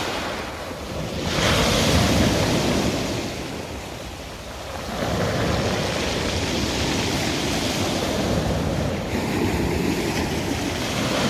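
Sea waves washing onto the shore, the surf swelling about two seconds in, easing off, then surging again and running on steadily.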